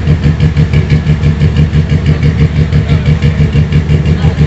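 Car engine idling loudly close by, its exhaust note pulsing in a quick, even rhythm.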